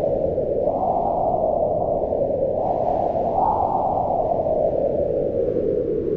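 Howling wind, a steady rushing with a hollow moaning pitch that swells upward about a second in and again around three seconds in, then slowly sinks.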